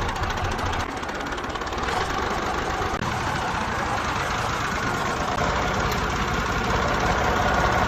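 Tractor engine running steadily with a regular knocking beat. Its low rumble grows stronger about five seconds in.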